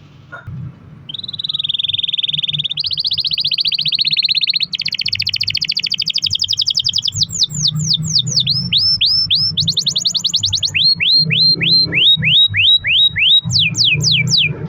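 Domestic canary singing a long song of rolls: rapid trills that shift up in pitch every few seconds, then runs of downward-sweeping whistled notes, three or four a second. A low hum sits under the song.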